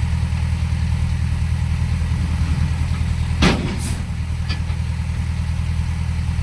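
Heavy diesel engine idling with a steady, even throb. About halfway through, a short sharp sound with a sweeping tone cuts in, followed by a brief hiss.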